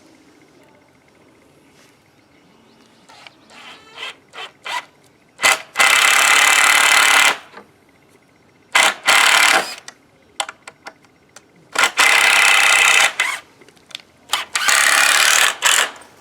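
Power drill running in four loud bursts of a second or so each, driving into a wooden frame, with a few light knocks and clicks from handling before the first burst.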